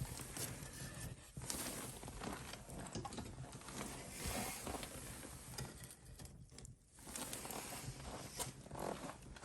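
Wood fire crackling in a fireplace, with irregular small pops and snaps.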